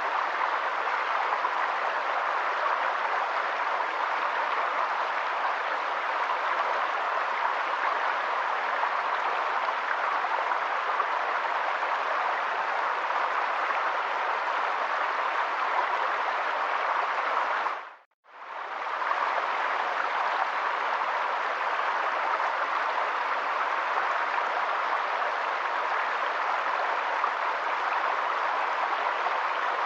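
Steady rushing of water, an even noise with no rhythm. It cuts out sharply for a moment about 18 seconds in and then returns unchanged.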